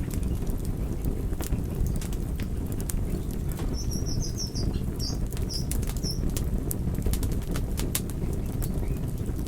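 Fire crackling: a steady low rush of flame with frequent sharp snaps and pops. A brief run of high chirps comes in about four seconds in.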